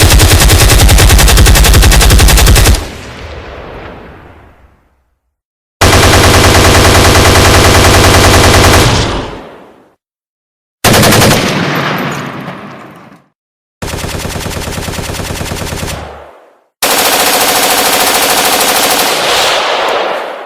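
Automatic gunfire sound effects: five separate bursts of rapid, continuous fire, each about one to three seconds long with an echoing tail, separated by silent gaps.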